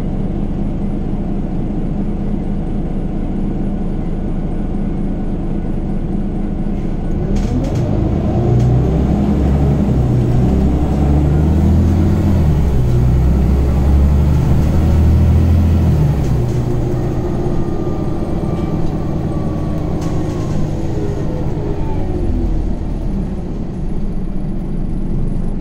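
Scania OmniCity city bus engine heard from on board, running steadily at first. About eight seconds in it gets louder as the bus pulls away under power, its note rising and falling through the ZF Ecomat automatic gearbox's shifts, then eases back for the rest of the stretch.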